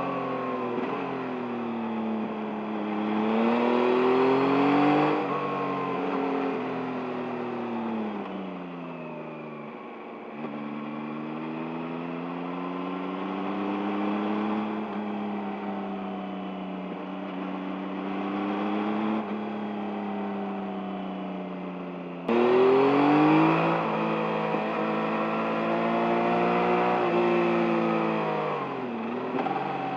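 2023 Yamaha MT-09's 890 cc inline-three engine on the move, its pitch rising and falling as the throttle is opened and closed through the bends. The throttle opens sharply about two-thirds of the way through, and the engine note climbs loudly.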